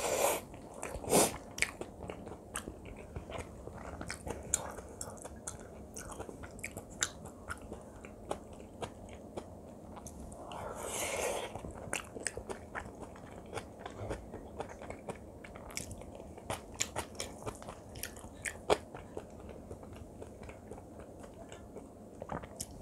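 Close-miked chewing of spicy kimchi fried rice with Spam: soft wet mouth sounds and many small clicks. A few louder clicks come near the start, the loudest about a second in, while the spoon scoops from the plate.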